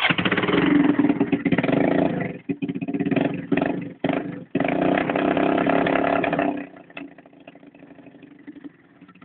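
Honda four-wheeler engine on a cold start, running loud through short open exhaust stacks and revved in uneven bursts with brief stumbles. About six and a half seconds in it drops to a much quieter level.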